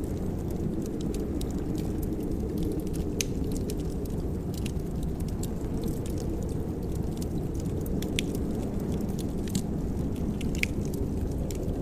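Fireplace wood fire crackling, with irregular sharp pops and snaps over a steady low rumble of the flames.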